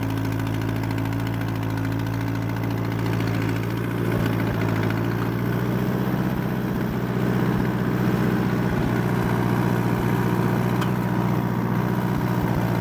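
Allis-Chalmers D14 tractor's four-cylinder engine running steadily while pulling a back blade through snow, getting a little louder about four seconds in and again past halfway.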